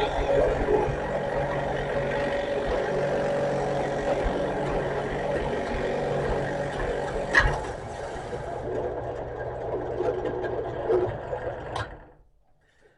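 Drill running steadily as a 1 3/4-inch Forstner bit bores a hole through a cedar board, with one sharp knock about seven seconds in. The motor winds down and stops near the end.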